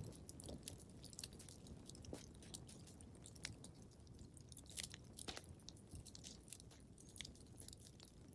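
Wood fire crackling in a fireplace: irregular sharp pops and snaps, several a second, over a low, steady rumble of the flames.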